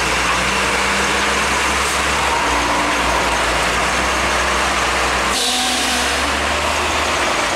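Truck engines running in heavy road traffic under a steady hiss, with an abrupt change in the sound a little over five seconds in.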